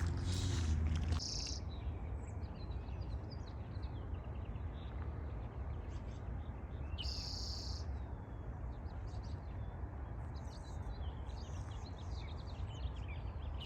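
Small birds chirping and calling, many short scattered notes over a steady outdoor background hiss, with a low rumble that stops just over a second in and a brief high buzz about halfway through.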